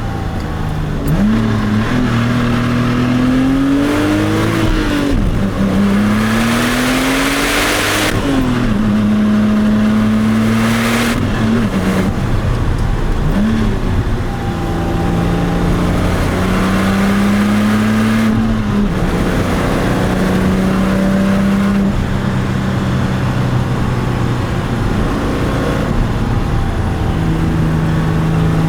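Porsche 996 Turbo's twin-turbo flat-six accelerating through the gears, its pitch climbing and then dropping at several upshifts, then holding a steady pitch for the last several seconds. A burst of rushing noise comes about six to eight seconds in.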